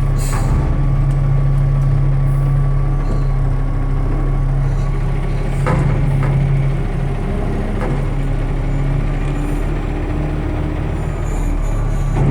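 Front-loader garbage truck's diesel engine running steadily at raised revs, its tone dropping a little about seven seconds in. A few sharp metal clanks come around six and eight seconds in.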